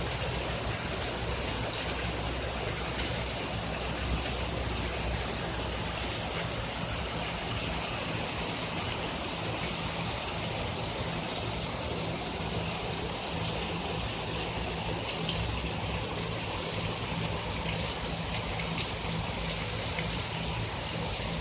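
Heavy rain of a storm pouring down steadily, a dense even hiss of falling and running water.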